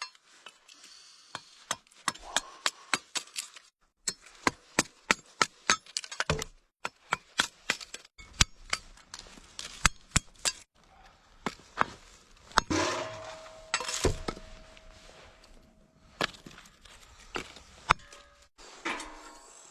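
Lumps of coal and pieces of firewood being handled, knocked together and broken up: a long run of sharp knocks and cracks, a couple each second, with a short scraping rush about thirteen seconds in.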